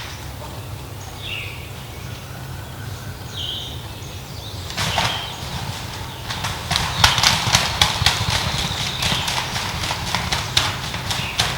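Brief high chirps, then from about five seconds in a dense, irregular crunching and crackling like footsteps through dry leaves in the woods.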